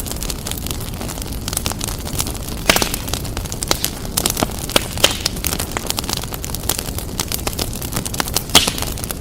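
Wood fire crackling and popping: a steady low rumble of burning with frequent irregular sharp pops, a few louder snaps about a third of the way in, midway and near the end.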